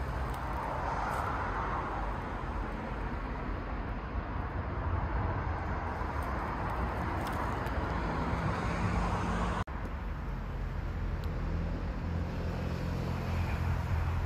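Steady rumble of a train passing, with a low hum underneath. It is broken by an abrupt cut about ten seconds in.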